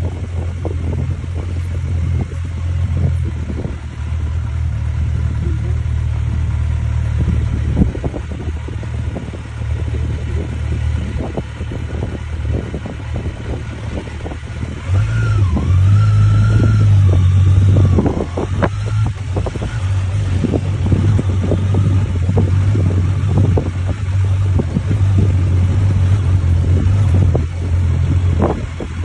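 Motorcycle engine running under way, with wind buffeting the microphone. About fifteen seconds in, the engine grows louder and a higher note rises and falls for a few seconds before it settles back to a steady drone.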